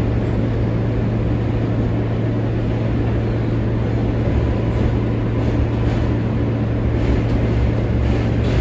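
R143 subway car running along the track, heard from on board: a steady rumble of wheels on rail under a constant low hum, with faint clicks in the second half.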